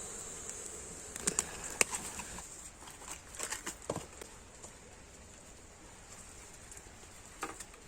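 Steady high-pitched buzz of insects that fades after a couple of seconds, with scattered sharp clicks and knocks throughout.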